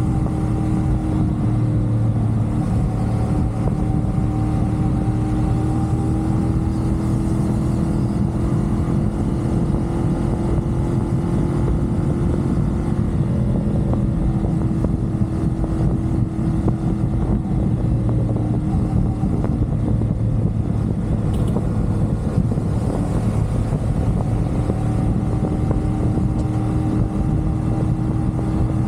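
CFMoto 450SR sport bike's parallel-twin engine running at a steady expressway cruise. The engine note holds fairly even, rising and falling slightly, over a constant low rush of wind and road noise.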